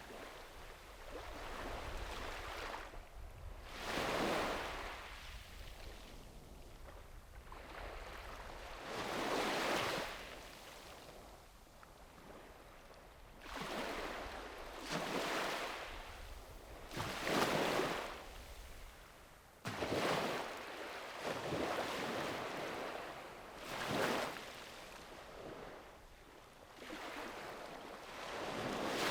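Small sea waves breaking and washing onto a sandy beach, one surge every few seconds, with light wind on the microphone.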